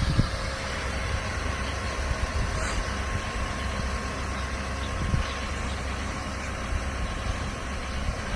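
Duramax V8 turbodiesel of a 2008 Chevrolet 4500 bucket truck idling steadily, with the PTO engaged to drive the boom hydraulics.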